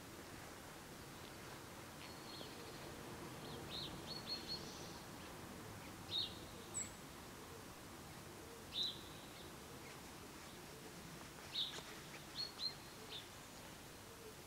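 Small bird chirping: short, high chirps in little clusters every couple of seconds, over a faint steady background hum.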